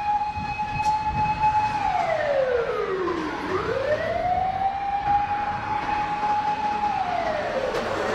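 Fire engine siren wailing: a steady high tone held for about a second and a half, sliding down and back up over about two seconds, held again, then falling once more near the end.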